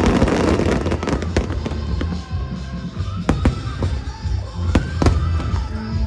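Aerial fireworks: a dense crackle at the start, then a series of sharp shell bursts, the loudest about three and five seconds in, with music playing underneath.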